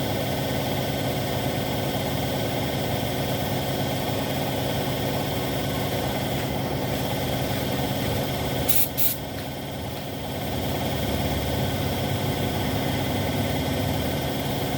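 Spray-painting equipment running steadily: a machine hum with hissing air. Two short sharp hisses come about nine seconds in, then the sound drops briefly before picking up again.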